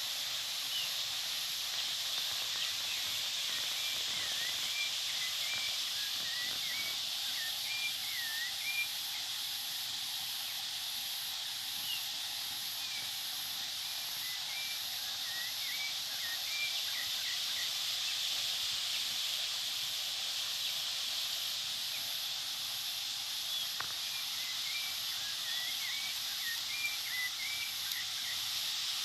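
A bird singing in three spells of quick, short chirps over a steady high hiss, with a faint, evenly pulsing buzz high above it.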